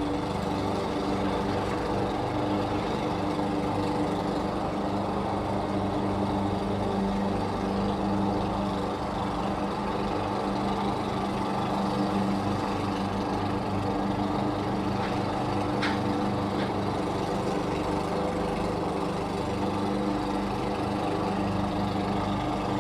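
Lawn mower engine running steadily at a constant speed, with a steady hum and a little rattle.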